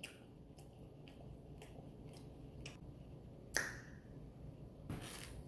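Faint eating and food-handling sounds: scattered soft clicks, a sharper click about three and a half seconds in, and a short rustle near the end.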